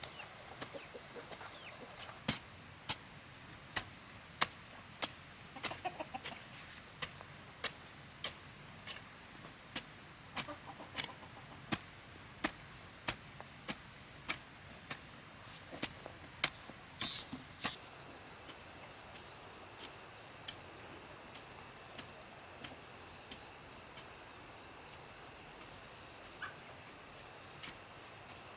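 Regular sharp strikes, about three every two seconds for some fifteen seconds, then only a few faint ones, with chickens clucking in between over a steady high-pitched hum.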